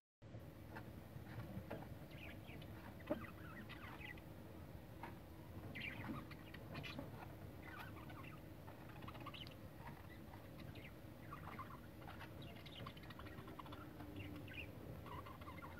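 Faint, scattered short chirps from small birds, several every second, over a low steady hum.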